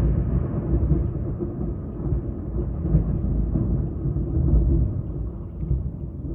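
Low rolling rumble of thunder from a lightning strike less than a mile away. It swells a couple of times and slowly dies away.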